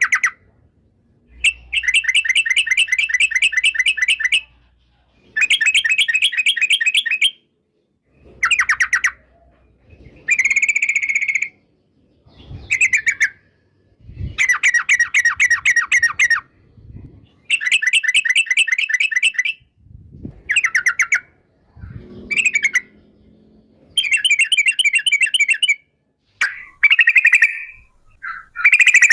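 Yellow-vented bulbul (trucukan) singing: repeated bouts of fast chattering notes, each bout lasting one to two seconds, separated by short pauses.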